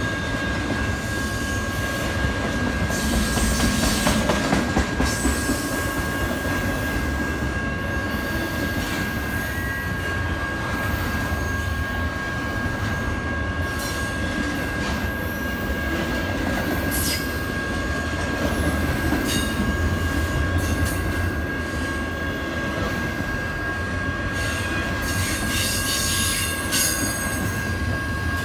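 Double-stacked intermodal well cars of a freight train rolling past: a steady rumble of steel wheels on rail, with a continuous high-pitched wheel squeal and scattered sharp clanks, a quick run of them near the end.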